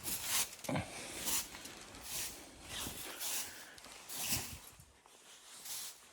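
Footsteps crunching in snow at a steady walking pace, growing fainter near the end.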